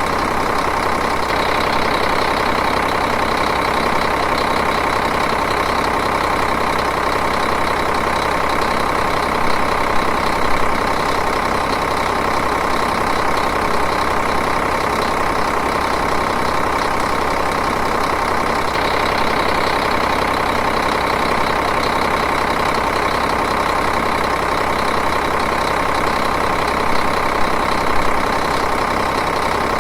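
Diesel engine idling steadily, running at an even, unchanging speed.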